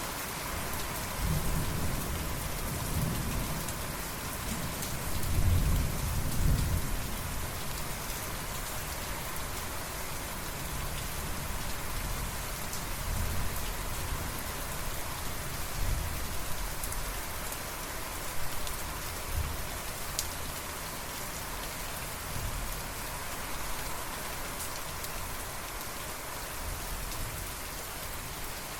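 Steady heavy rain falling, with a low roll of thunder rumbling in the first seven seconds or so, loudest about six seconds in.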